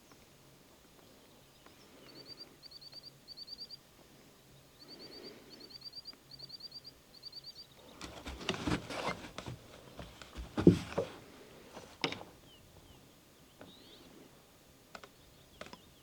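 A small bird calling in quick groups of three or four high chirps, repeated over several seconds. Then rustling and clicking, with a sharp knock about ten and a half seconds in and another about a second later.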